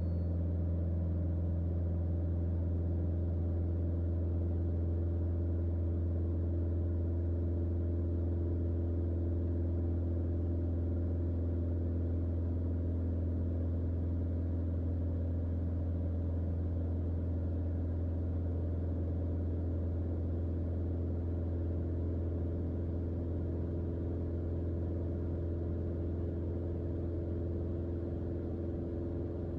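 Mooney M20J's four-cylinder Lycoming IO-360 engine and propeller making a steady, unchanging drone in the cockpit during the climb.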